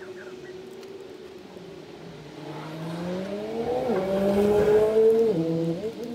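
A road vehicle's engine accelerating past, growing louder and rising in pitch over a few seconds, with two short drops in pitch at gear changes, the second and larger near the end.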